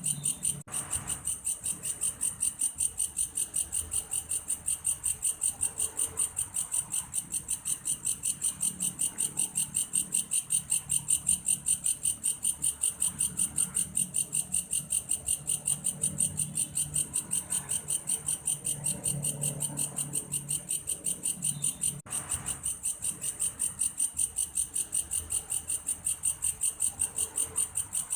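Belalang kayu grasshopper singing: a steady, high-pitched pulsed chirping of about four pulses a second that keeps going without a break.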